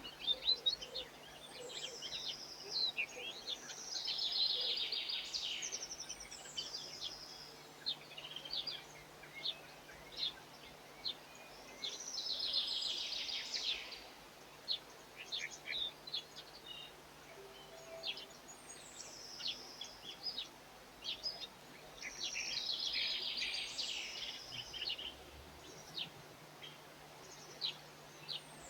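European goldfinches twittering: several bursts of rapid, high chirping song a second or two long, with single short calls in between.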